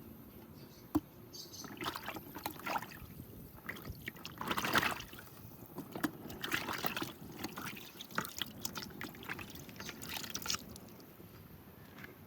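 Water being poured and sloshed in short irregular bursts, with scattered clicks and knocks; a sharp knock about a second in.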